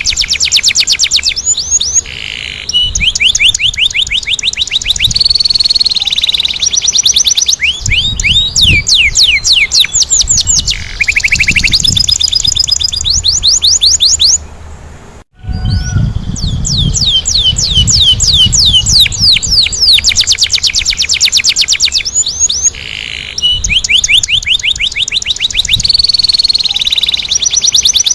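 Domestic canary singing: long rolling trills of rapidly repeated, sharply falling notes, changing from one trill type to the next, with a brief break about halfway through.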